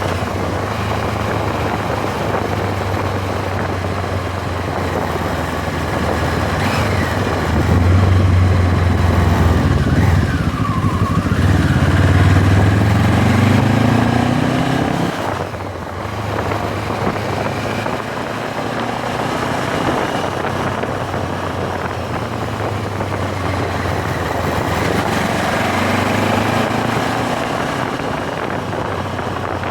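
MZ 1000 motorcycle's parallel-twin engine running on the road, with wind rush. About a third of the way in it gets louder and climbs in pitch under acceleration, then the note drops suddenly about halfway through and settles back to steady cruising.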